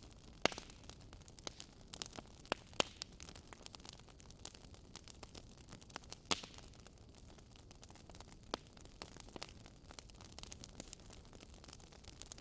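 Wood fire in a fireplace crackling, with irregular sharp pops over a faint steady hiss. The loudest pops come about half a second, about three seconds and about six seconds in.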